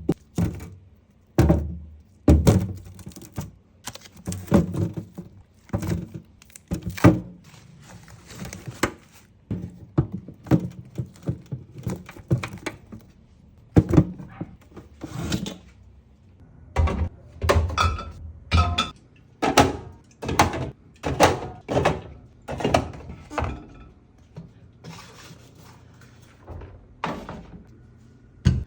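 Groceries and containers being set down and arranged in a fridge: a steady run of separate thunks, knocks and clatters, about one or two a second.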